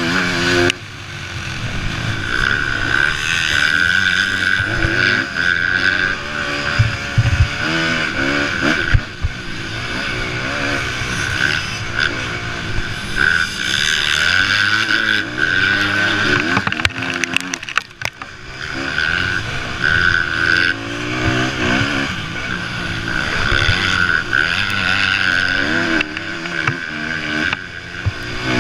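Motocross bikes racing: several engines revving up and down continuously as riders accelerate and shift, with a short lull about two-thirds of the way through.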